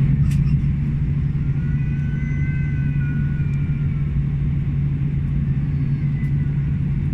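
Steady low hum of an Airbus A320's passenger cabin, with a faint high whine wavering briefly about two to four seconds in.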